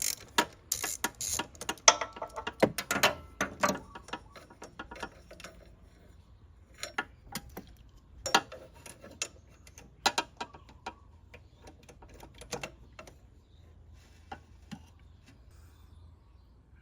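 Hand tools working on a scooter's brake: a quick run of ratchet-like metal clicking for about four seconds, then scattered single clicks and taps that thin out and stop.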